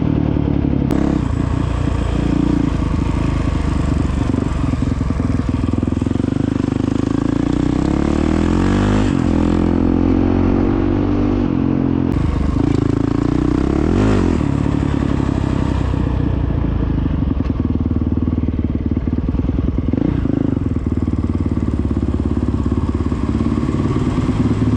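Honda CRF450X dirt bike's single-cylinder four-stroke engine running steadily under way. The engine note dips and climbs back twice, about nine and fourteen seconds in.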